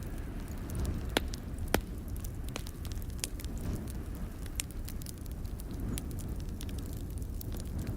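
Wood fire crackling in a fireplace: scattered sharp pops and snaps, the two loudest coming a little over a second in, over a steady low rumble.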